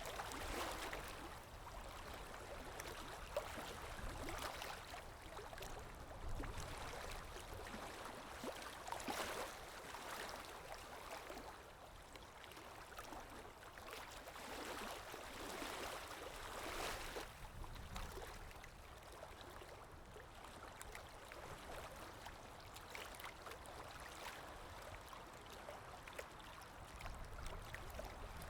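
Calm sea waves washing in, a soft water hiss that swells and fades every few seconds.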